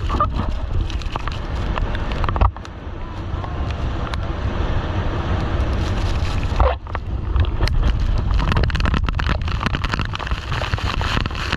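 Wind buffeting the microphone with a heavy rumble, over the rush of water and boat engine noise, during a ride on a towed banana boat.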